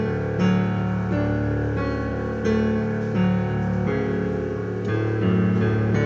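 Piano music: a slow succession of sustained notes over a steady low bass tone.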